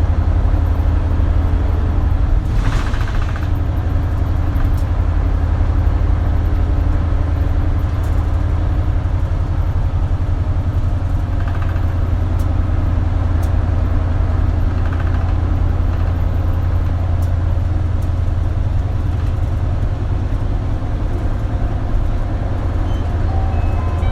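Isuzu KL-LV280L1 city bus heard from inside the passenger cabin, its diesel engine giving a steady low drone, with a short hiss about three seconds in.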